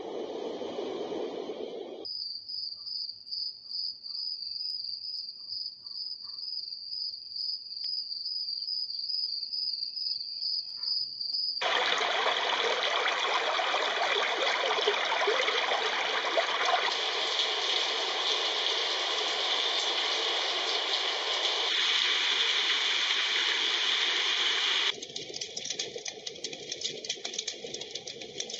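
Small portable white noise machine's speaker playing its built-in soothing sounds one after another. First comes a high, rapidly pulsing chirp like crickets. About a third of the way in it gives way to a loud, steady rushing noise like running water, which changes near the end to a coarser sound full of fine crackles.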